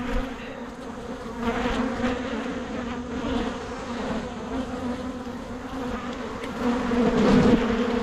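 Swarm of honeybees buzzing steadily around an opened hive, growing louder near the end.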